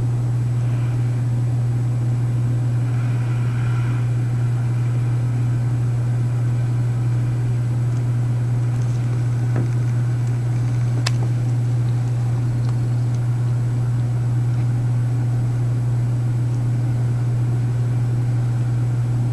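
Large city work truck's engine idling, a steady low drone that does not change, with a single sharp click about eleven seconds in.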